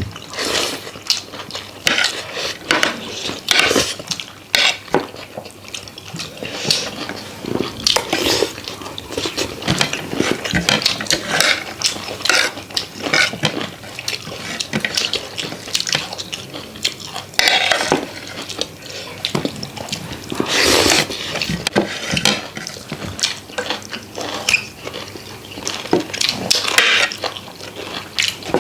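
Eating from a plate: dishes and cutlery clinking and scraping again and again, with a few longer wet, slurping-like noises about two-thirds of the way through.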